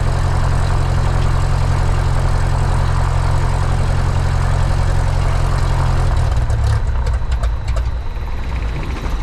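Cessna 172's piston engine and propeller idling steadily, then from about six seconds in running rough and uneven as it begins to die: it is starved of fuel, the fuel selector having been turned to off.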